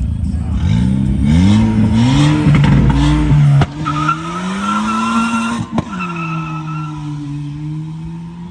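A car engine revved in four quick rising blips, then held at high revs as the car is spun, with tyres squealing. A loud low rumble drops away suddenly about three and a half seconds in.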